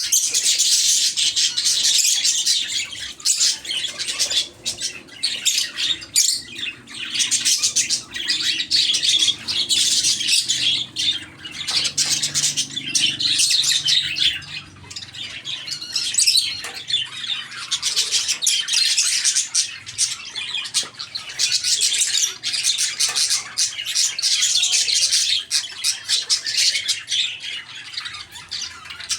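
A flock of parakeets and lovebirds chattering and squawking without pause. The shrill calls overlap densely and swell and ease in waves a few seconds long.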